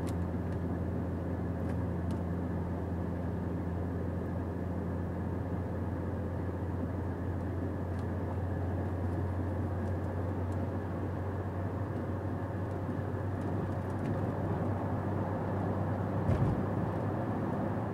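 Volkswagen Touareg 3.0 TDI's V6 diesel engine running at a steady drone with road and tyre noise, heard from inside the cabin while towing a caravan uphill. The driver says the gearbox has a fault and will not change gear. There is a brief bump near the end.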